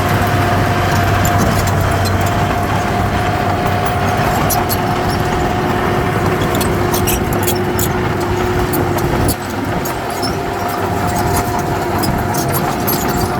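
Heavy diesel earthmoving machinery running steadily under load, with a low engine hum and a steady high whine; it eases off slightly about nine seconds in.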